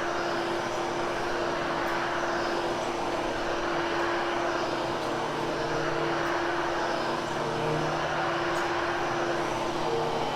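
Vacuum cleaner running steadily over a polyester area rug during post-vacuuming, a steady whine over a broad rush of air.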